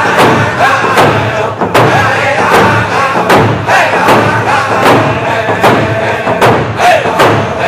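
Round dance song: a group of singers singing together over a steady beat of hand drums, about two beats a second.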